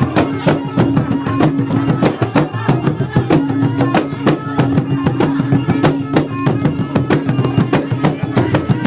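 Traditional dance music led by drums beaten in a fast, even rhythm over a held low tone.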